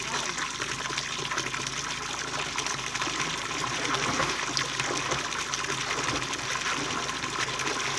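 Running water gushing steadily, an even rushing splash with no change in level.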